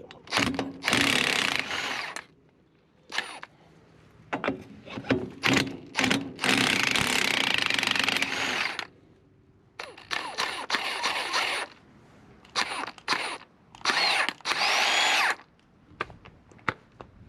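Handheld power tool run in several short bursts of one to two seconds, spinning off the lug nuts that hold the wheel spacer on a truck hub. Small metal clicks come between the bursts.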